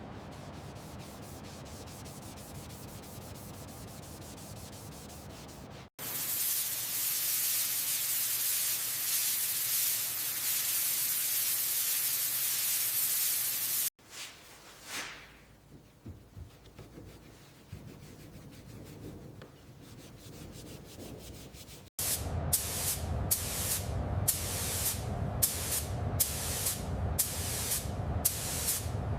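Hand restoration work on aircraft metal, in short cut-together takes. A loud, steady hiss lasts several seconds, followed by a quieter stretch, and then rhythmic rubbing strokes, about two a second, typical of hand sanding.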